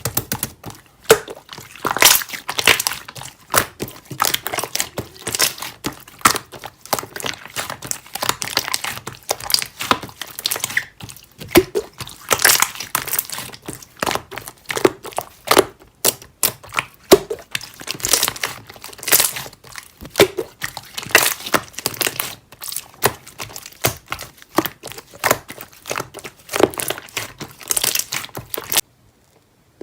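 Slime being squeezed and pressed by hand: a dense, irregular stream of sticky clicks, pops and crackles, which stops suddenly near the end.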